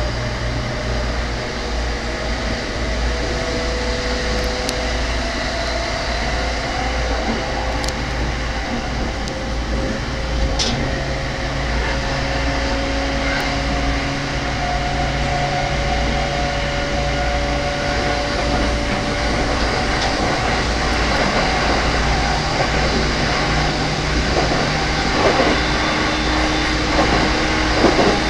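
JR E231-series commuter train running, heard from inside the rear car: steady rumble of wheels on rail, with a faint tone that slowly rises in pitch and a few sharp clicks about a third of the way in.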